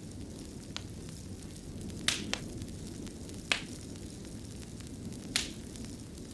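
Wood fire in a fireplace crackling over a steady low rumble, with about five sharp pops scattered through, two of them close together.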